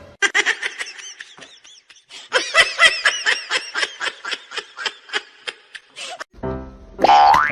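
A person laughing hard in a long run of short, quick bursts, about four a second. Near the end, music comes in with a rising sound effect.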